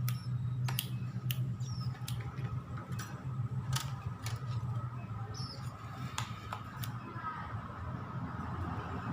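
Young bar-winged prinia, just weaned, giving a few short high chirps, with scattered sharp clicks and a steady low hum behind.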